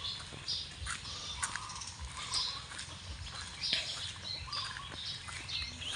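Many birds chirping and calling at once, short high calls overlapping without a break.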